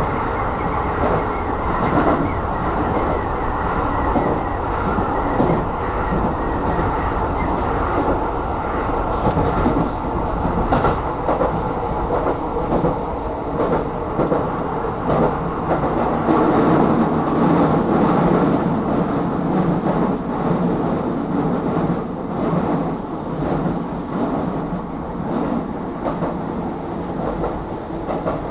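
Aonami Line electric train running along the track, steady running noise with wheels clicking over rail joints.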